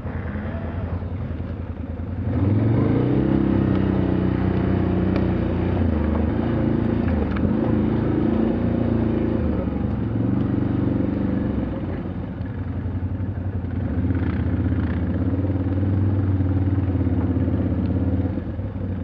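All-terrain vehicle engine running under throttle, picking up and getting louder about two seconds in, then holding with small rises and falls in pitch and easing off briefly around twelve seconds.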